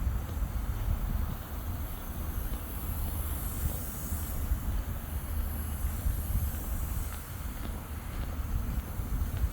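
Wind buffeting the microphone: an unsteady low rumble with a steady high hiss above it.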